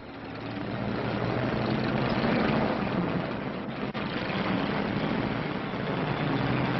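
Steady drone of a propeller aircraft's engines on a 1930s film soundtrack, starting abruptly and swelling over the first second.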